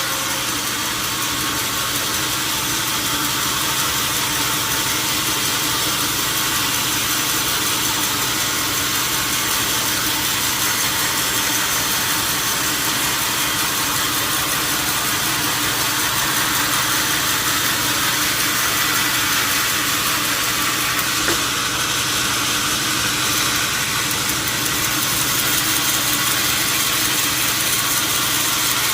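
Steady machine hum with an even hiss over it.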